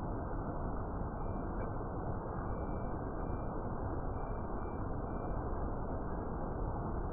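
Rainforest ambience: a steady low rushing noise, with short high piping notes, often in pairs, repeating every second or so until near the end.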